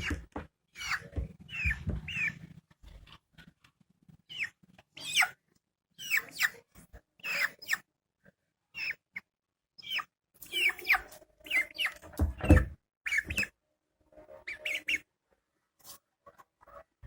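Young Aseel-type chicken making repeated short, high calls that slide downward in pitch, with a few dull low thumps near the start and about 12 seconds in.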